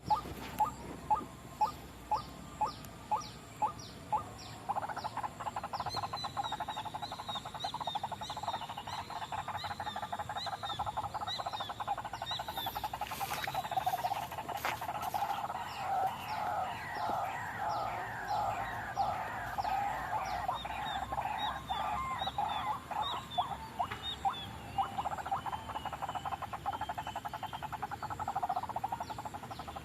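White-breasted waterhen (ruak-ruak) calling: a series of loud calls about two a second, then a fast, unbroken run of repeated calls with higher sweeping notes over it. This is a lure call used to draw the birds in.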